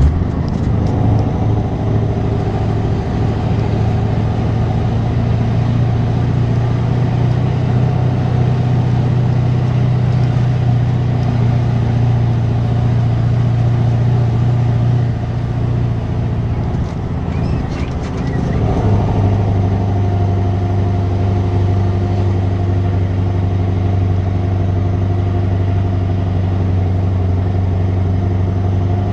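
Scania 164 480's V8 diesel engine through a straight exhaust, running steadily with a deep, even note. About 16 seconds in it dips briefly, then settles back to a steady note a little lower in pitch.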